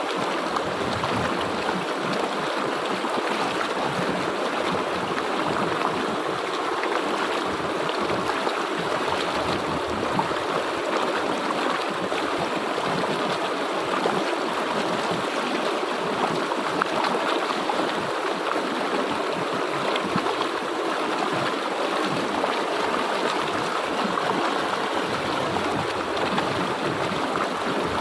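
Flowing river water running over rocks, a steady rushing and gurgling with no break.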